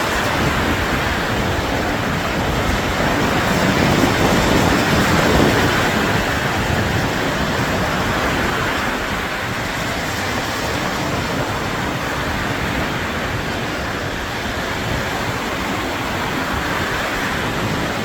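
Sea surf washing on the shore, a steady rushing noise that swells a little around four to six seconds in, with wind rumbling on the microphone.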